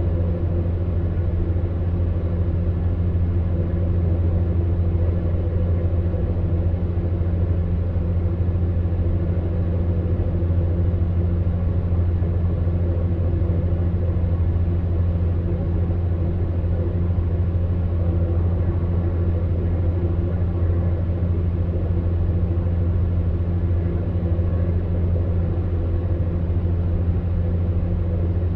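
Electric fan heater running steadily: a continuous low motor hum with a few steady overtones under an even rush of blown air.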